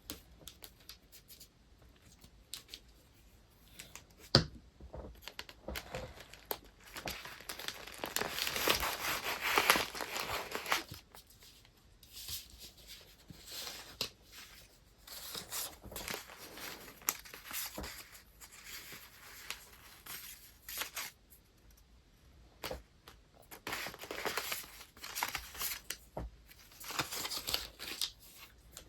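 Paper and wrapping materials handled during hand packing: soft taps and clicks, then a long stretch of loud paper rustling and crinkling from about eight to eleven seconds in, with more bursts of rustling near the end. There is one sharp click about four seconds in.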